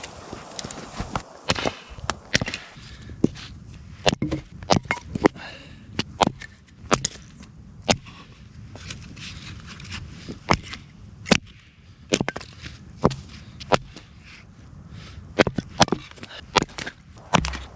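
Firewood being chopped and split into smaller pieces: a string of sharp, irregular wooden knocks, about one a second, some coming in quick pairs.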